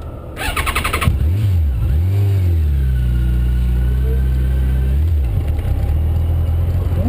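Motorcycle engine started: a brief burst of starter cranking, then the engine catches, is revved up and down twice, and settles into a steady low-pitched run.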